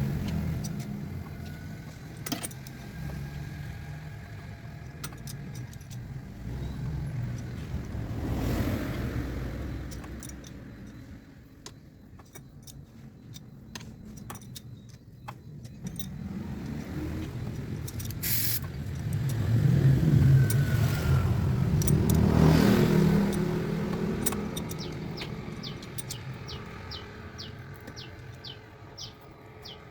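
Motor vehicles passing on a road, their rumble swelling and fading twice, with scattered light metallic clicks and a quick run of ticks near the end.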